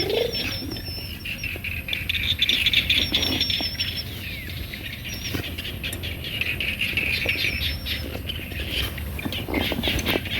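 Birds calling: short wavering high chirps repeated several times, over a busy chorus of outdoor sound.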